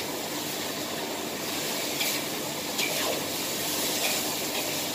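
Stir-fry sizzling with a steady hiss in a wok, with starch water just added, and a spatula scraping the wok three times.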